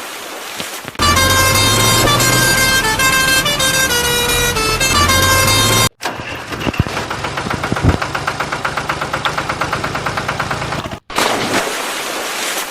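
A musical vehicle horn plays a tune of stepping notes for about five seconds. It cuts off, and a tractor's diesel engine chugs at an even rhythm of about eight beats a second. About a second before the end that also cuts off to a rushing noise.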